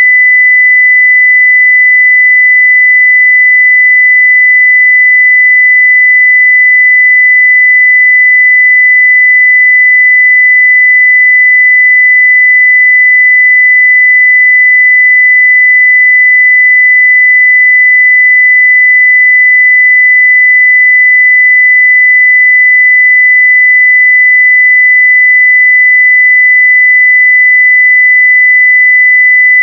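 Pure 2 kHz sine-wave test tone, held at a constant, near-full-scale level.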